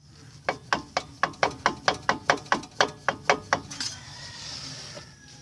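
A rapid series of about a dozen sharp clunks, about four a second, from the drivetrain of a Mitsubishi Lancer Evolution VII: the clunk that the owner suspects comes from the transmission, transfer case or driveshaft slip yoke. A short hiss follows.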